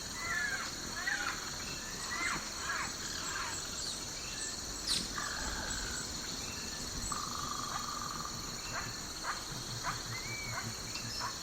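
Recorded nature ambience: many birds calling in short sweeping notes and a couple of held whistles, over a steady high insect drone.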